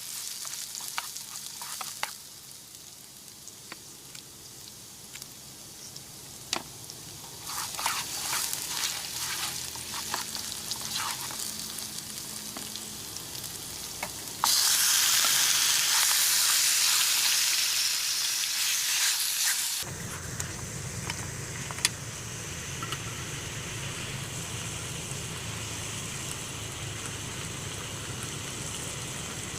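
Food frying in a pan, sizzling and crackling with scattered clicks of stirring. About halfway through comes a much louder sizzle, as of food going into hot oil, which lasts about five seconds and then stops abruptly. A steady, even hiss follows.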